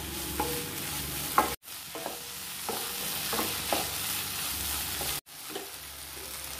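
Chopped onions, tomatoes and cashew nuts sizzling in butter in a nonstick kadai, with a wooden spatula scraping and stirring them in short strokes. The sound cuts out briefly twice.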